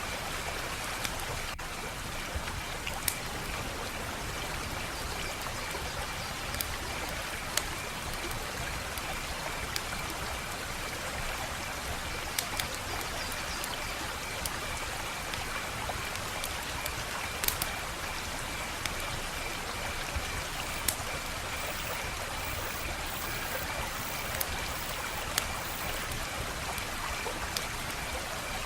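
Wood fire in a fireplace crackling: a steady hiss of burning with sharp, irregular pops every second or two.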